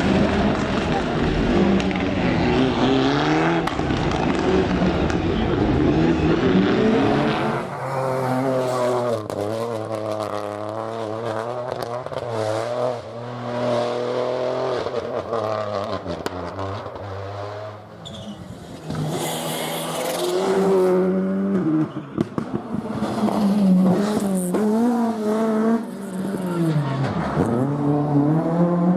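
Rally cars driven hard on a special stage: engines revving up and dropping back through gear changes and braking as the cars pass, with some tyre noise.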